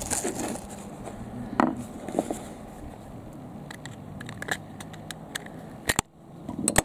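Scattered clicks, cracks and scrapes of a small plastic gear-motor casing being prised open by hand, with a sharp knock about six seconds in, over a faint steady low hum.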